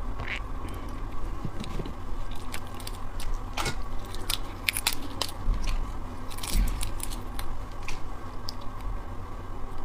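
Close-miked eating of raw shrimp and prawns: irregular biting, crunching and clicking, with soft chewing between.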